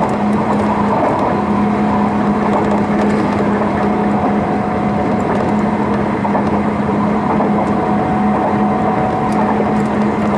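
Running noise inside a Sotetsu New 7000 series electric motor car with a Hitachi GTO-VVVF inverter, heard from on board between stations: steady wheel and rail rumble under a constant low hum.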